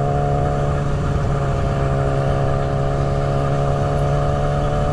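Motorcycle engine running at a steady cruising speed, one even tone with overtones over a rush of wind noise.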